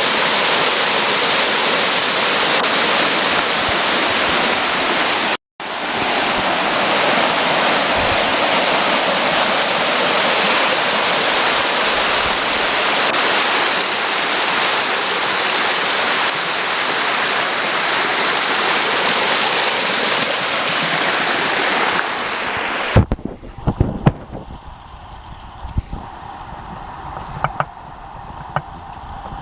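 Waterfall: falling water rushing loudly and evenly, broken once by a split-second gap about five seconds in. About 23 seconds in, the rush stops abruptly and gives way to a much quieter background with scattered knocks and clicks.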